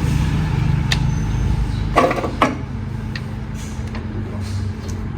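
A motor running steadily with a low rumble, and two sharp metallic clanks about two seconds in.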